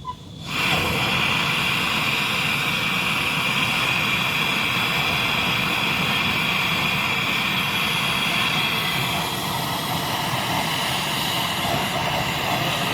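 Loud, steady hiss of gas rushing out under pressure, as in refrigeration work on a freezer compressor, starting suddenly about half a second in and easing slightly near the end.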